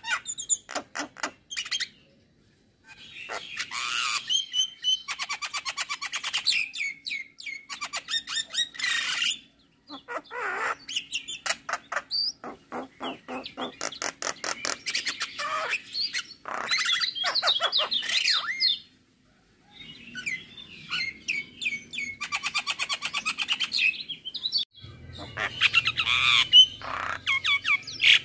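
Male Javan myna singing a long, varied song of rapid clicking rattles, whistled notes and harsh squawks, in phrases broken by two short pauses.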